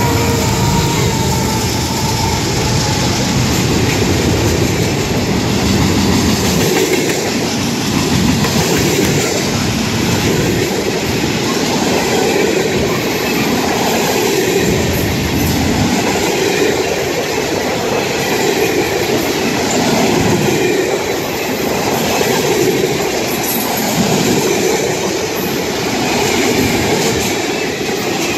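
A freight train passing close by: the diesel locomotives' engines for the first several seconds, then a long string of freight cars rolling past with steady wheel and rail noise.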